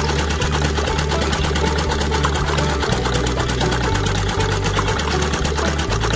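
Small electric motor and gears of a DIY toy tractor running with a fast, even rattle.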